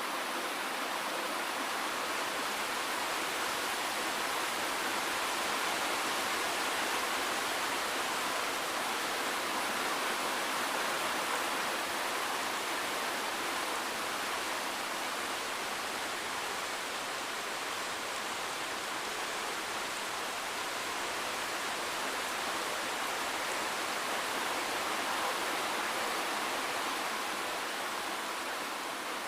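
Steady rain falling, a dense even hiss with no single drops standing out and almost no low rumble.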